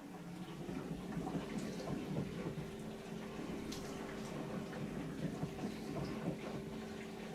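Bosch Serie 4 compact dishwasher's wash pump spinning up, its hum rising in pitch over the first second and then running steady, with water spraying and splashing inside the tub.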